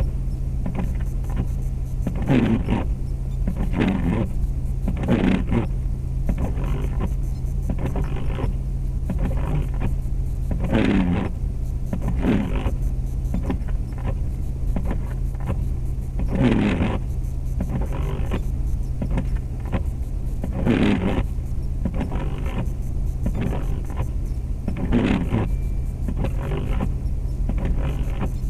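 Inside a 2004 Jeep Grand Cherokee's cabin while driving: the 4.7 L V8 and the road make a steady low drone, with irregular knocks and thumps every second or so.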